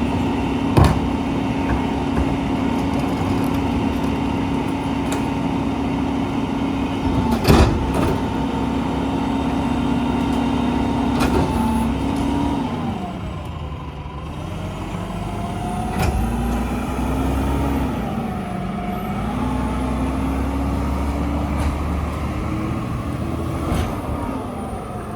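Mack LEU rear-loader garbage truck's engine running at a steady high speed, then dropping and rising and falling in pitch about halfway through. Several sharp bangs along the way.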